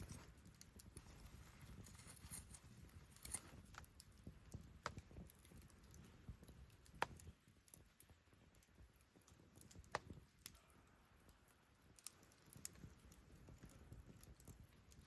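Wood campfire crackling faintly, with scattered sharp pops over a low steady rumble of burning.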